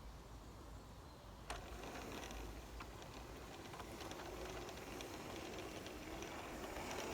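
Lionel G-scale James the Red Engine toy locomotive running slowly on track power: a faint electric motor hum that grows a little stronger in the second half, with a few clicks from the wheels and track, one sharp one about a second and a half in.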